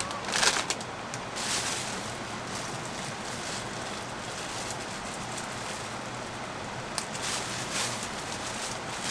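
Steady rain falling, an even hiss, with a few short rustles or knocks about a second in and again near the end.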